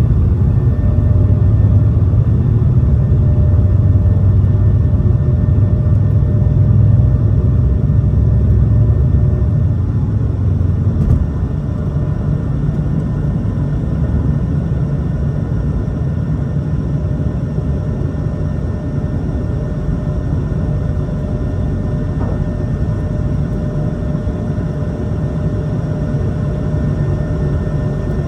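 Airbus A220-300's Pratt & Whitney PW1500G geared turbofan engines running with a loud low rumble and steady whining tones above it. The rumble eases a little about eleven seconds in.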